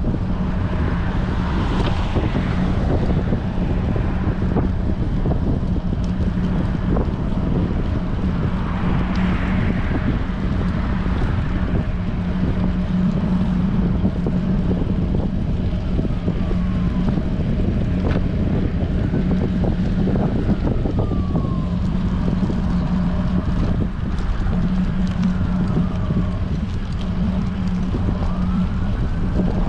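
Strong wind buffeting the microphone of a camera riding on a moving bicycle, a dense steady rumble with a low hum running under it. From about halfway through, a faint siren wails, its pitch falling again and again, and it grows clearer near the end.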